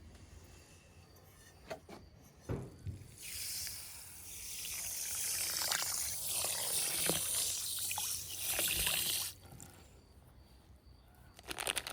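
Liquid poured into a container, a steady hissing pour lasting about six seconds that stops suddenly, after a couple of knocks from handling the vessel.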